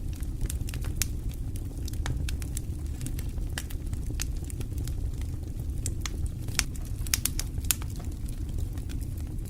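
Wood fire crackling, with frequent irregular sharp pops over a steady low rumble of the flames.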